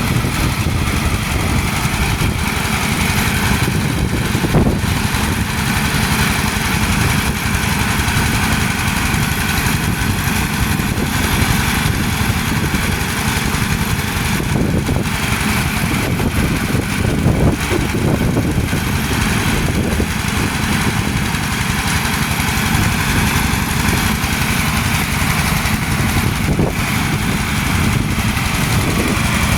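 Small engine of a motorised drilling rig running steadily.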